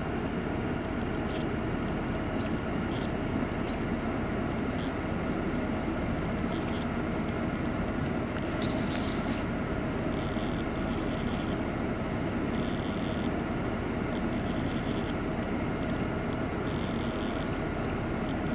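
Steady low rumble of a train, with faint light clicks every second or two and a short hiss about halfway through.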